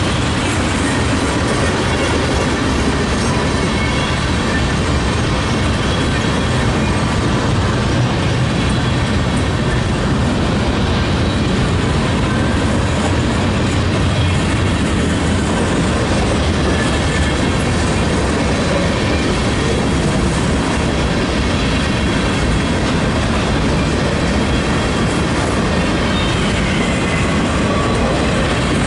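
Freight cars of a passing BNSF mixed freight train (boxcars, gondolas and covered hoppers) rolling by at close range: a steady, loud rumble and clatter of steel wheels on the rails.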